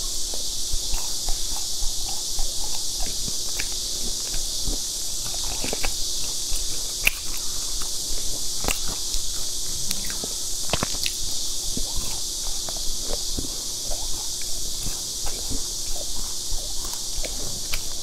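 Close-miked chewing of fried dough twists: irregular crisp crunches and mouth clicks over a steady high hiss.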